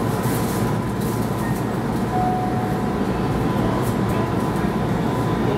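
Steady hum and rumble in the cab of a Keihan 13000 series electric train standing at a station platform, with a faint steady high tone and a short brief tone about two seconds in.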